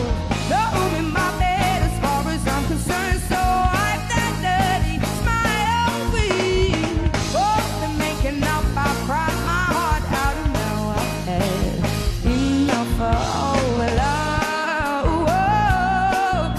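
Live soul-pop band music with singing over a steady beat.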